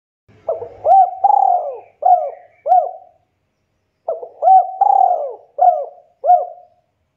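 Spotted dove (tekukur) cooing: two phrases of five coos each, separated by a pause of about a second.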